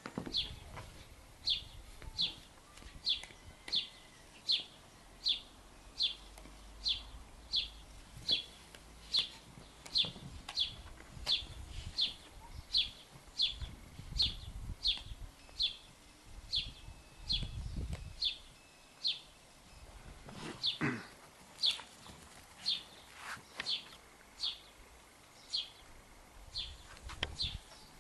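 A bird chirping one short high note over and over at an even pace, a little more than once a second. Faint low rumbles and a few soft knocks lie underneath, the loudest about two-thirds of the way through.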